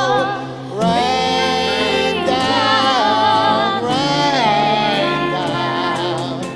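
Voices singing a slow worship hymn in long held notes with vibrato, over steady low sustained notes from the accompaniment.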